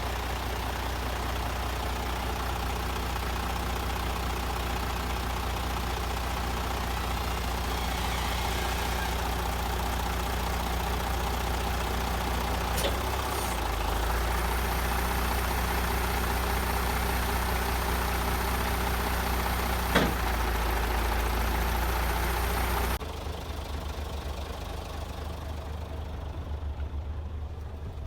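Scania truck's diesel engine idling steadily, with one sharp click about twenty seconds in. A few seconds later the sound drops abruptly to a quieter low rumble.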